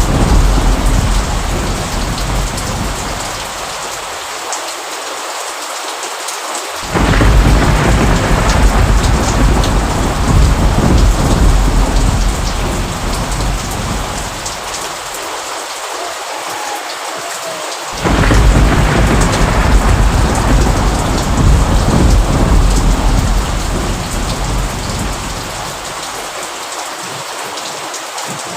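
Steady rain with low rumbling thunder. The rumble fades out, then returns suddenly about seven seconds in and again about eighteen seconds in, each time dying away over several seconds under the constant hiss of the rain.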